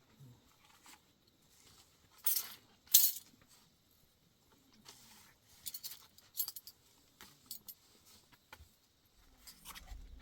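Scattered light clinks and clicks of small hard objects being handled, a few seconds apart, the loudest about three seconds in.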